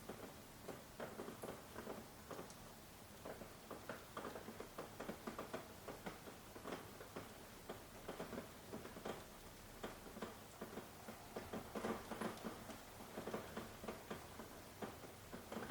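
Faint, irregular soft ticking and tapping, several light clicks a second over a quiet hiss.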